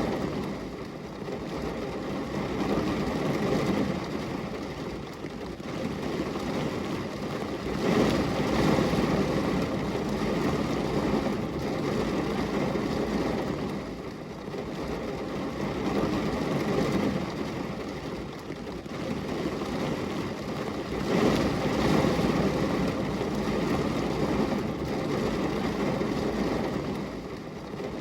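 Steady rain falling on window glass, an even rush of noise that swells and eases every few seconds.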